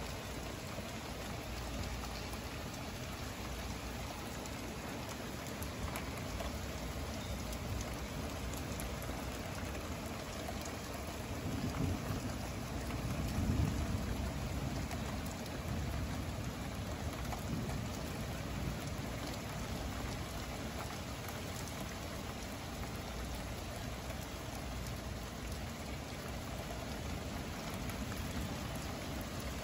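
Heavy rain falling steadily during a thunderstorm. About halfway through, a low rumble of thunder builds and fades over a few seconds.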